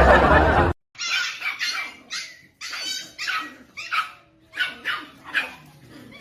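A dog barking in a run of short, separate barks, roughly two a second. This follows loud sound from the previous clip that cuts off abruptly under a second in.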